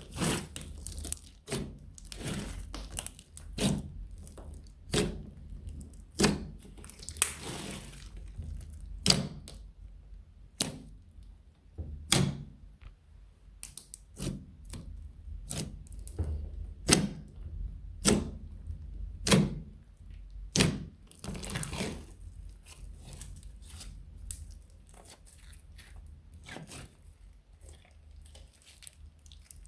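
Slime being kneaded and folded by hand: sharp sticky pops and clicks, most about a second apart, each with a dull thunk, growing softer near the end.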